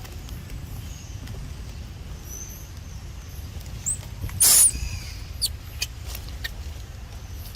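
Macaque monkey giving one short, loud, shrill squeal about halfway through, with a few faint high chirps before and after it over a steady low rumble.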